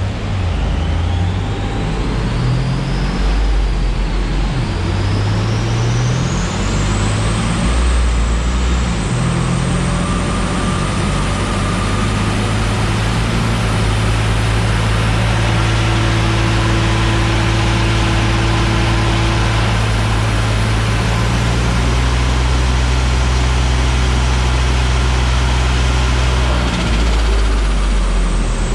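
Boosted car running on a chassis dyno, revving up and shifting through several gears in the first eight seconds or so, then held at a steady speed until it drops away near the end. A high whine climbs with the speed, holds, then falls.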